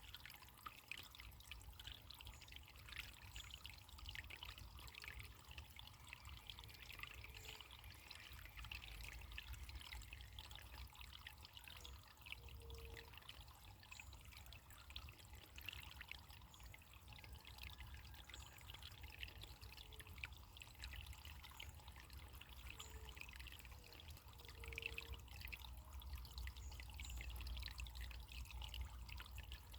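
Faint running water trickling and babbling steadily, like a small stream.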